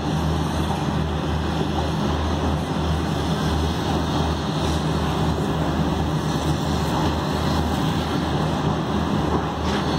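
Steady rumble of a passenger train coach rolling slowly through a station, heard from on board, with a strong low hum and no clear wheel clicks.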